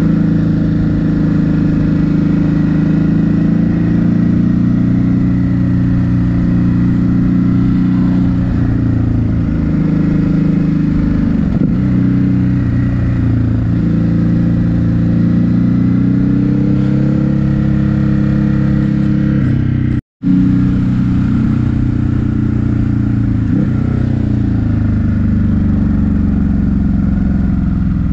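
Ducati Hypermotard 950 SP's 937 cc L-twin engine pulling under way, its pitch rising and falling as the rider works the throttle and gears. The sound cuts out completely for a split second about two-thirds of the way through.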